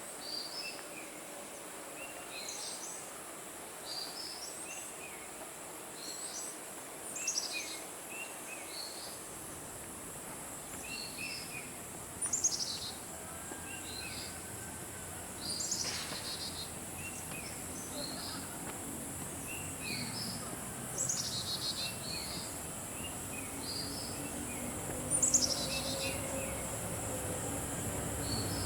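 Forest birds chirping repeatedly, with short calls every second or two and a few louder, longer calls, over a steady high-pitched insect drone.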